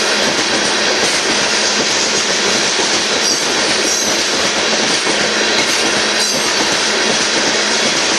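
Loaded aggregate hopper cars of a freight train rolling past: steady wheel-on-rail noise with a few faint clacks of wheels over rail joints.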